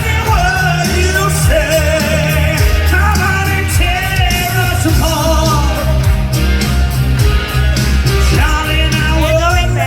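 Loud live band music in a rock style: a singer's voice, wordless or unclear, over heavy steady bass and drums.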